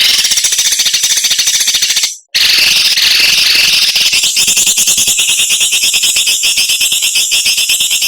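A songbird singing a harsh, sharp, rapidly pulsed buzzing trill, the 'besetan' used in bird-training recordings. It comes in two long runs with a short break about two seconds in.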